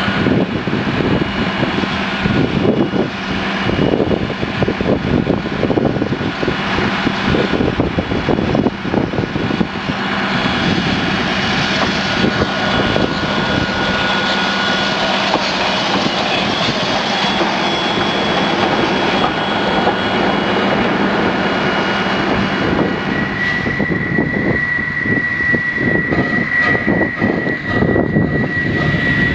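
Rail vehicles running loudly close by: a WW-class steam locomotive working away from the platform, then a track maintenance machine. In the last quarter a steady high whine joins the noise.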